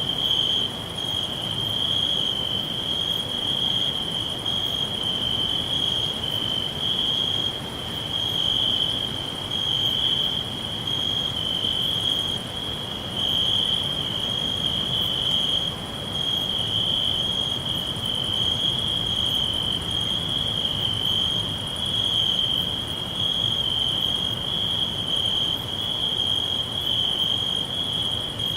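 Crickets trilling in one steady, high-pitched, unbroken trill that swells and dips slightly, with a fainter, higher chirp repeating about once a second above it.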